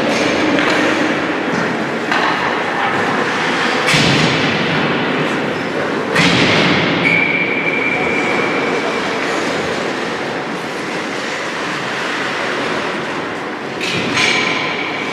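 Ice hockey game on the rink: a steady scraping hiss of skates on ice with sharp bangs of puck or sticks against the boards about four and six seconds in and again near the end, and a held high tone for a couple of seconds after the second bang.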